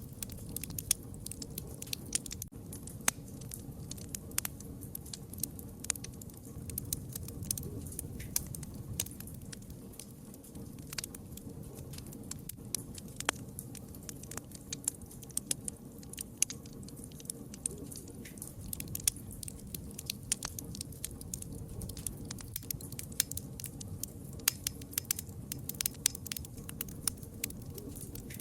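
Campfire crackling: frequent irregular sharp pops and snaps over a low steady rumble of burning.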